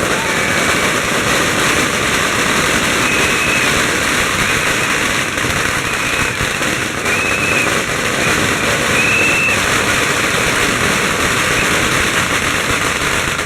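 A long string of Chinese firecrackers going off in a dense, continuous rapid crackle of bangs that does not let up, with a few short high whistle-like tones over it.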